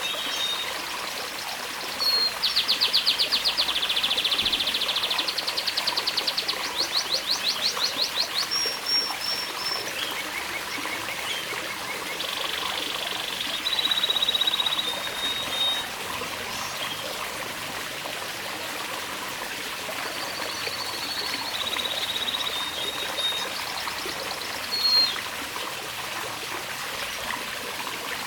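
Domestic canary singing: fast rolling trills and held whistled notes, busiest in the first eight seconds and sparser later, over water trickling steadily.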